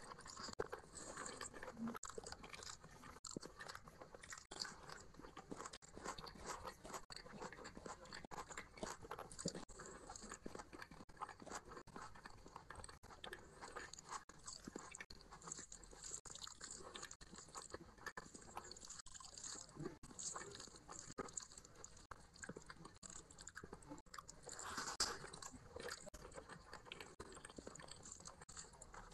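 Close-miked chewing and mouth sounds of a person eating rice and curry by hand: a continuous run of small wet smacks and clicks, with one louder bite near the end.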